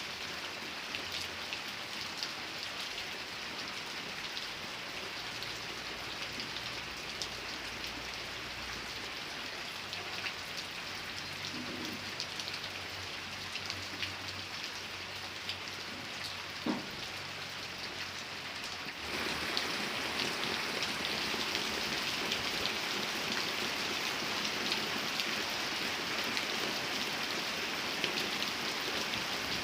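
Steady rain falling, with many individual drops ticking on a surface. The rain gets abruptly louder about two-thirds of the way through.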